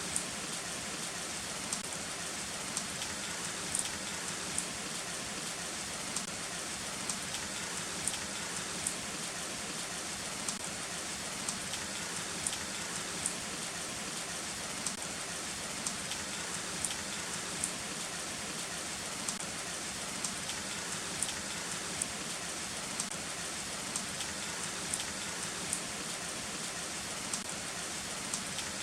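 Heavy rain falling steadily, an even hiss with frequent sharp taps of drops striking a nearby surface, about one or two a second. No thunder is heard.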